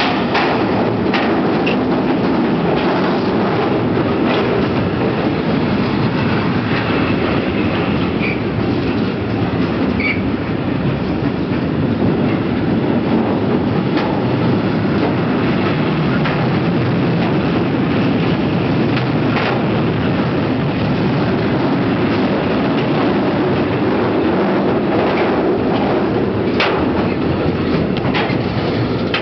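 Freight train of tank wagons rolling past close by: a steady rumble of steel wheels on the rails, with occasional sharp clicks and knocks from the wheels and couplings.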